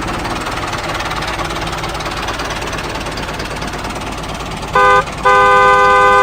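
A small engine running steadily, then a horn sounds: one short toot followed by a longer blast near the end.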